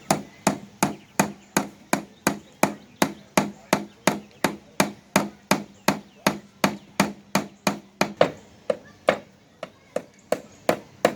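Hammer driving nails into wood, a steady run of sharp blows at about three a second.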